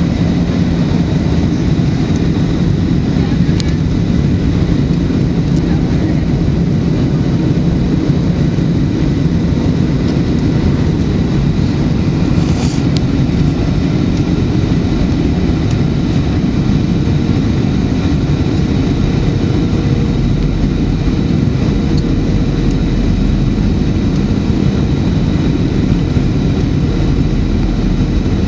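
Boeing 737-900 airliner in flight on approach, heard from the passenger cabin: a steady roar of airflow and its CFM56 turbofan engines, with thin steady whining tones over it. A deeper low rumble strengthens about two-thirds of the way through.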